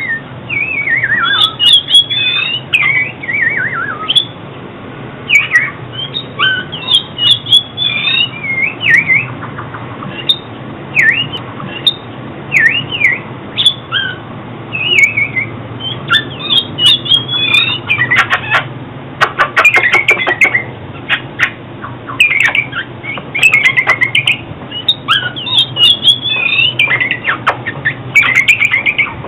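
Oriental magpie-robin singing: a varied, continuous run of whistled phrases with sweeping rising and falling notes, broken by harsh, scratchy notes in the middle and again near the end.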